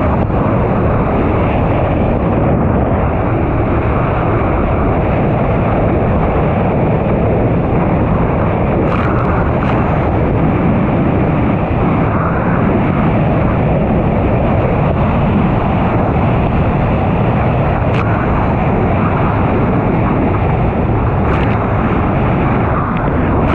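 1999 Sea-Doo XPL personal watercraft's two-stroke engine running steadily under way, mixed with heavy wind noise on the microphone. A few brief clicks break through.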